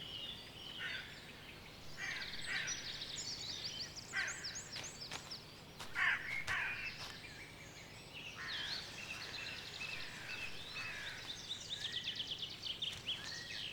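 Songbirds singing in woodland, with overlapping chirps and several fast trills of repeated notes.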